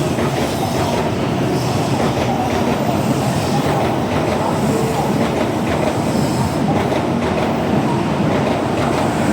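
N700A Shinkansen train pulling out of the platform, its cars rolling past with a steady, even running noise of wheels on rail.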